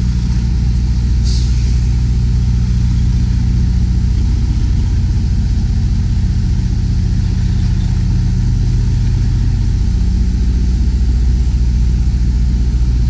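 Semi tractor's diesel engine running steadily at low revs, a deep even hum, with a short hiss about a second in.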